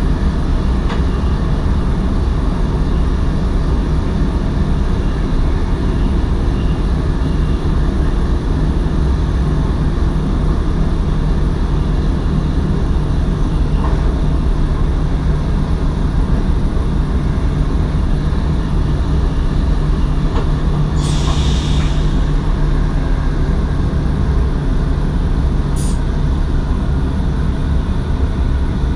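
NS SGMM (Sprinter) electric multiple unit running along the track, heard from inside the driver's cab: a steady low rumble, with a short hiss about two-thirds of the way through and a briefer one a few seconds later.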